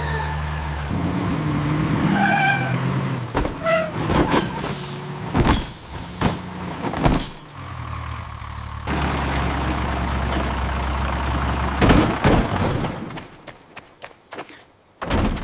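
Cartoon vehicle engine sound effects: a steady low engine hum that drops out about a second in, comes back later and cuts off near the end. In between come a few short pitched tones and several sharp knocks and clanks.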